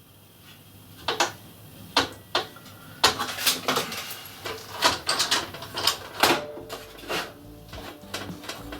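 Irregular sharp knocks and clatters, sparse at first and coming thicker from about three seconds in, like things being handled and set down.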